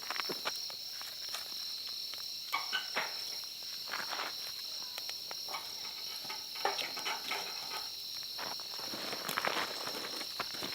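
Steady high-pitched chirring of insects, crickets or similar, with scattered light clicks and rustles of movement over it.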